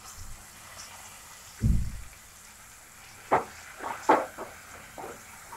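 Curry leaves, green chillies and ginger-garlic paste sizzling gently in coconut oil in a kadai. A wooden spatula knocks and scrapes against the pan several times in the second half, and there is a dull thump a little under two seconds in.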